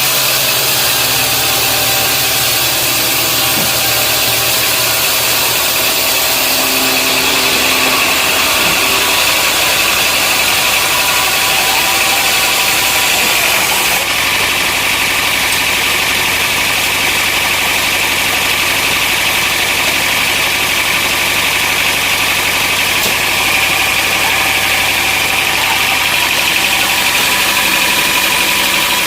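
Sawmill machinery running steadily, an engine with a high, steady whine above it; the sound changes abruptly about halfway through.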